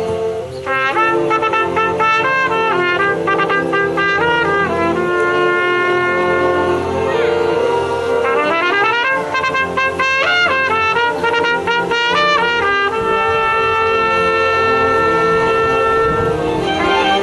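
Solo trumpet playing a fast melodic line of quick runs and slides, then long held notes, over a live orchestra's sustained accompaniment. The trumpet comes in under a second in.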